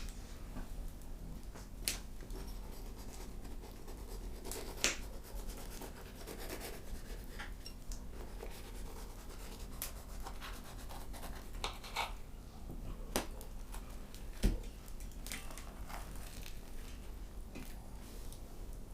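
Food and utensils being handled while cooked food is finished and served: scattered light clicks and taps with some scraping, over a low steady background.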